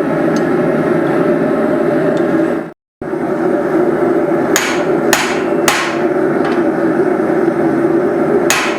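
Cross-peen hand hammer striking hot steel on an anvil: three blows about half a second apart, then another near the end, each with a short ring, over a steady droning background. The sound drops out completely for a moment about three seconds in.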